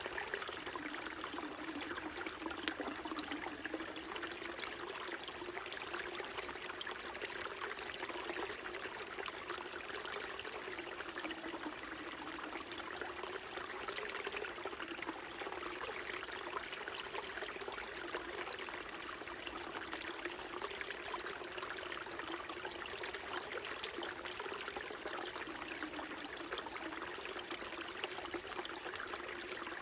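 A small mountain stream flowing steadily, a continuous babble of running water with fine trickling detail and a low gurgle that wavers slightly.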